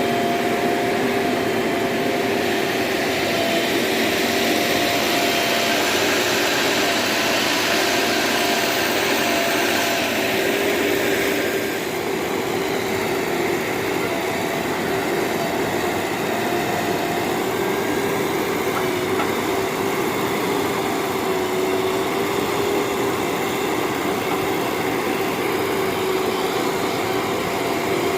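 Heavy vehicle's diesel engine running steadily, with a steady whine over it; a hiss above it eases off about twelve seconds in.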